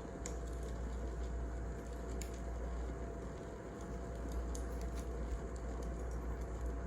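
Wood fire burning: a steady low rush with scattered sharp crackles and pops.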